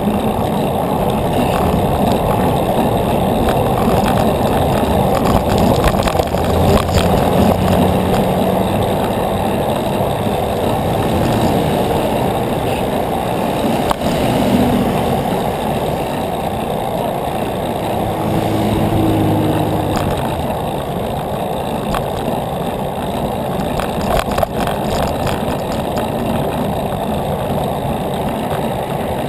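Steady wind and road rush on the microphone of a moving bicycle, with motor-vehicle engines in traffic rising over it a few seconds in and again about two-thirds of the way through.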